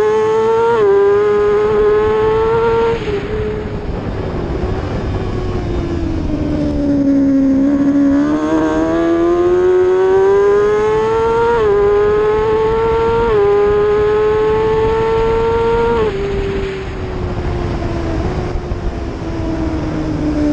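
600cc racing motorcycle engine accelerating hard through the gears, its pitch climbing and dropping at each quick upshift, then falling away as the bike slows; this happens twice, with a steady rush of wind beneath.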